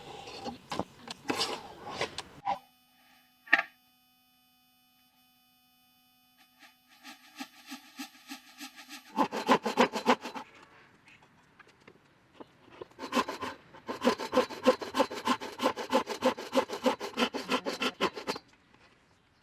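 Fast rasping strokes of a hand tool working wood, in bursts near the start, about nine seconds in and again for several seconds near the end. Between them a steady chord of held tones sounds for several seconds, with one sharp click.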